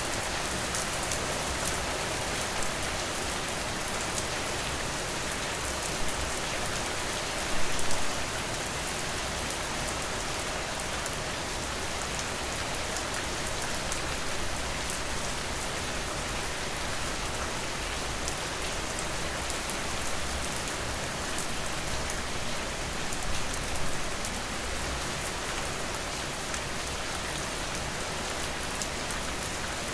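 Steady rain falling on a surface, a dense even patter with a couple of brief louder spells, one about a quarter of the way in and one past the middle.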